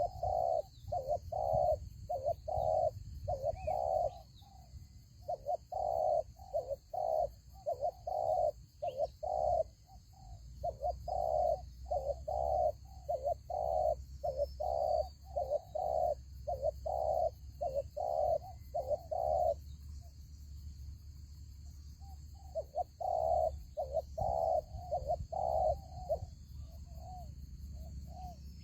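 Spotted doves cooing: long runs of repeated coos, breaking off briefly about four seconds in and for a couple of seconds past the two-thirds mark. Faint small-bird chirps sound higher up.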